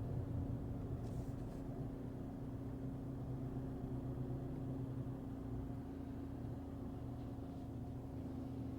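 Steady low running hum heard inside the cabin of a 2025 Volkswagen Golf TDI, a diesel car, with a constant drone over low rumble.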